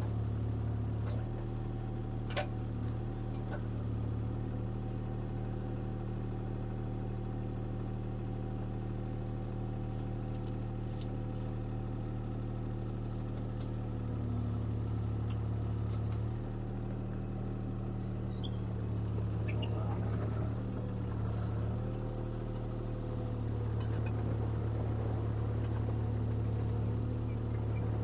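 CAT 303C CR mini excavator's diesel engine running steadily, its hum rising and easing a little as the machine works, with an occasional short click or knock.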